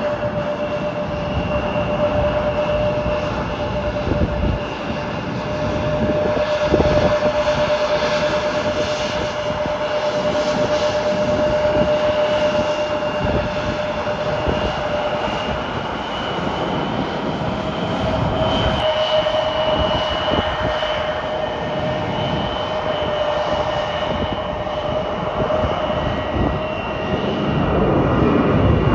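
Jet airliner's turbofan engines running: a steady roar with two held whining tones that shift slightly in pitch partway through, getting louder near the end.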